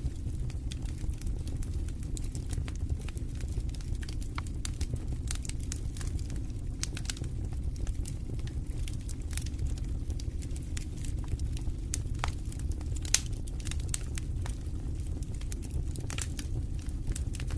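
Wood fire crackling in a fireplace: a steady low rumble of flames with frequent sharp pops and snaps, a few louder ones past the middle.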